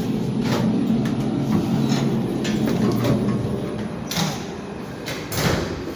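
A steady low machinery hum aboard the tanker, with a series of knocks and clicks. The hum softens a little midway, and the loudest knocks come about four seconds in and again near the end.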